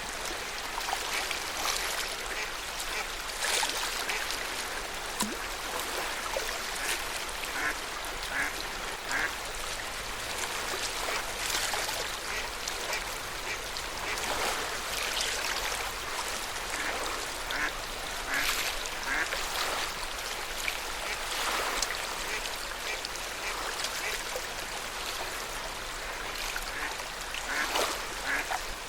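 Lake water lapping and splashing at the shore, with short, repeated calls of water birds.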